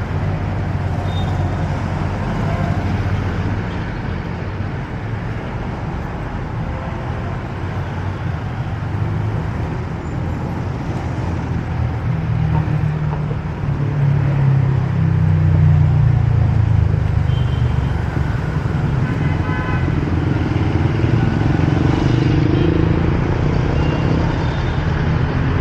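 Downtown street traffic: motor vehicle engines running close by with a steady low rumble that grows louder about halfway through as vehicles pass.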